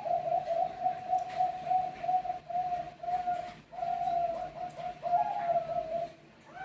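Zebra dove (Bangkok perkutut) cooing: a long run of short, quick coo notes in a clear tone, with a brief break about three and a half seconds in.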